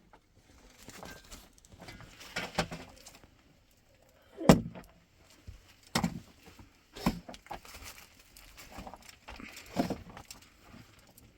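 Irregular knocks and thuds, about half a dozen spread over several seconds, the loudest about four and a half seconds in, with softer scraping and rustling between them.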